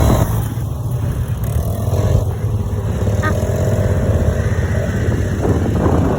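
Quad bike engine running with a steady low rumble.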